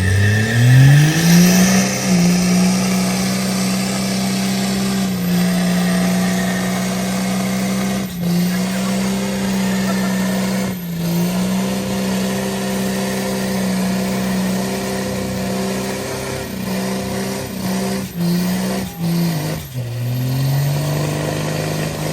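A vehicle engine revs up over the first two seconds and is held at a steady high pitch for a long stretch, with a few brief dips. Near the end it drops and then climbs again.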